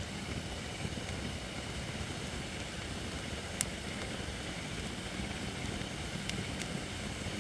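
Holly firewood burning in a campfire: a steady low rush with a few sharp pops, the loudest about three and a half seconds in and two smaller ones near the end.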